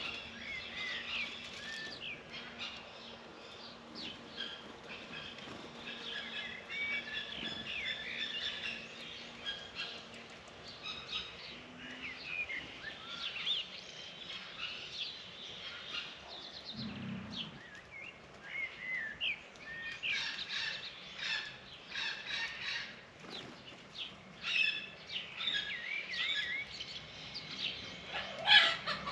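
A flock of small birds chirping and twittering, many short overlapping calls throughout, with one sharp, louder sound near the end.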